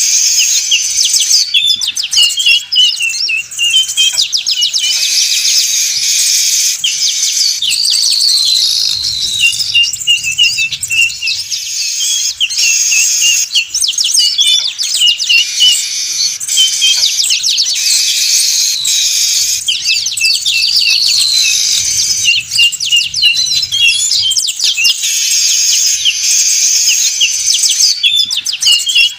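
Weaver birds (manyar) calling loudly in a dense, noisy chorus of rapid chirps, twitters and short gliding notes. It is a lure recording for trapping weavers, with the same passage repeating about every ten to eleven seconds.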